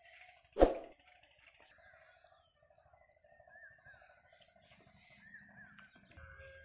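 Birds chirping outdoors, with short rise-and-fall calls over a steady pulsing trill. A single sharp knock about half a second in is the loudest sound.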